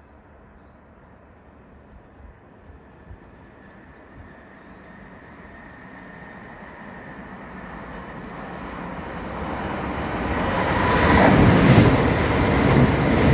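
A train approaching on the line, its rumble and rail noise growing steadily louder over about ten seconds until it is passing close and loud near the end.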